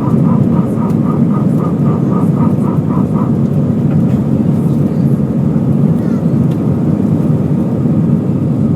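Steady rumble of airflow and engines inside an Airbus A320 cabin in flight. A faint rapid two-note beeping, about four pulses a second, stops about three seconds in.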